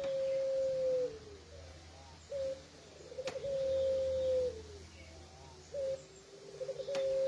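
Puter pelung dove cooing over and over. Each call is a short note, a quick stuttering run, then a long held coo that drops in pitch at the end, repeating about every three and a half seconds.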